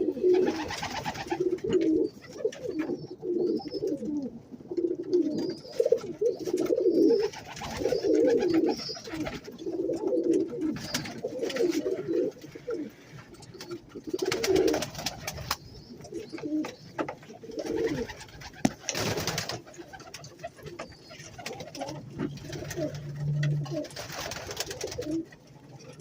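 Domestic pigeons cooing over and over, low warbling calls overlapping one another, with a few short noisy rushes in between.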